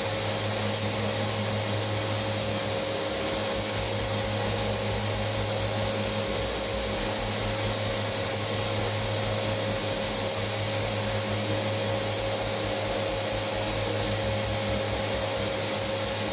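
Steady drone of an electric motor and fan: a constant whine over an airy rush that does not change.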